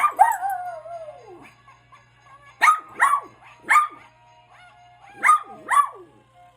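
A dog barking: one long drawn-out falling call right at the start, then three sharp barks in quick succession and, after a short pause, two more. Music plays faintly underneath.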